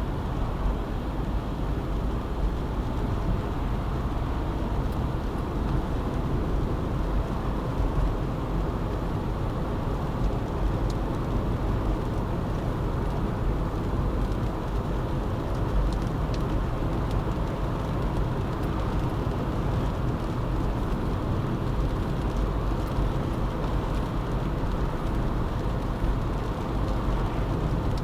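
A car driving at an even pace, its engine and tyres making a steady road noise.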